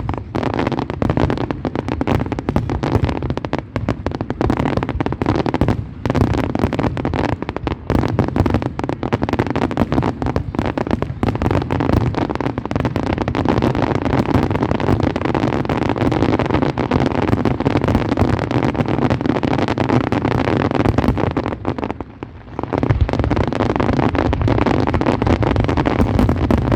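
Fireworks display: a dense, continuous barrage of bursts and crackling, easing briefly about 22 seconds in before carrying on.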